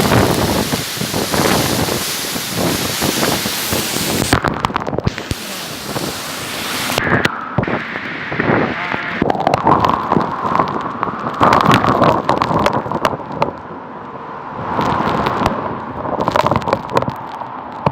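Strong gusty wind from a whirlwind, buffeting the microphone with a loud rushing roar for the first seven seconds or so, then a duller rumble broken by many sharp cracks and knocks.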